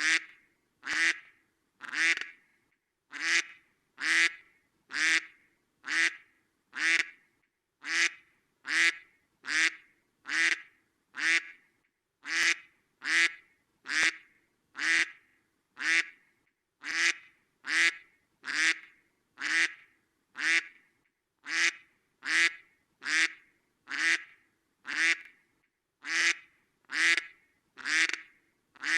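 Duck quacking: short single quacks repeated at an even pace, a little more than one a second, each call alike.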